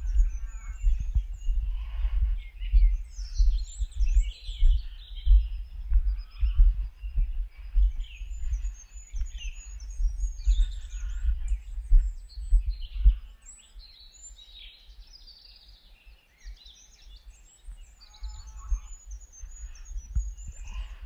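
Several songbirds singing and chirping, with short trills and high twittering throughout. Under them runs a louder low thumping and rumble that drops away for a few seconds about two-thirds through.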